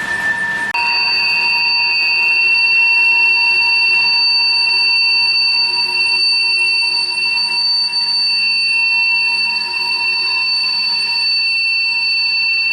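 Steel freight-car wheels squealing against the rails as the empty coal hoppers roll past, a loud steady squeal. Less than a second in it drops out briefly, then comes back higher and holds steady.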